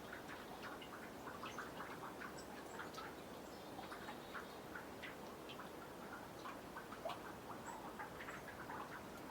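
Meltwater from snow dripping off a boardwalk into a nearly frozen pond: many faint, irregular small plinks and ticks, several a second.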